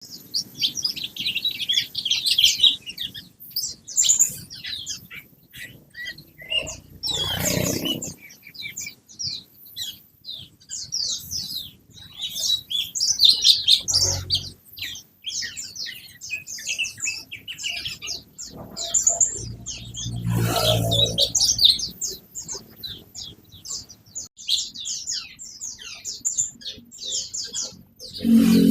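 Cucak cungkok songbird singing vigorously: a dense, continuous run of rapid high chirps and trills. A low thump or rustle cuts in three times, about a quarter, half and two-thirds of the way through.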